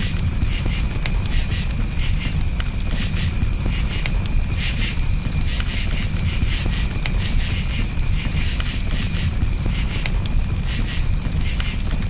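Crickets chirping in repeated pulsed trills over a campfire's steady low rumble, with scattered small crackles from the fire.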